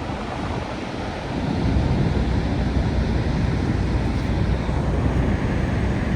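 Steady roar of Niagara Falls' falling water, with wind buffeting the microphone; the low rumble gets louder about a second and a half in.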